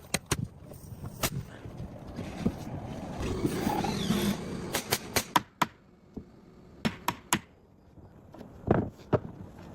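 Irregular sharp knocks and taps of wooden boards being fitted and struck on a timber roof deck, some in quick clusters, over an uneven noisy rustle in the middle.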